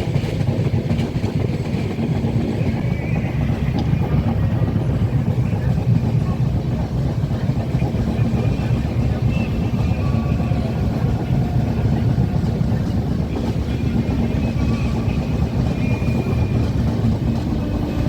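Passenger train running along the track, a steady low rumble of wheels and coaches.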